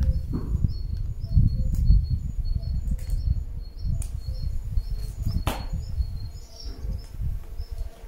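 A small bird chirping over and over in short high notes, over a constant low rumble, with a few sharp clicks.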